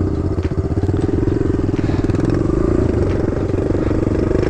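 Kawasaki KLX110 dirt bike's small single-cylinder four-stroke engine running steadily at an even pitch.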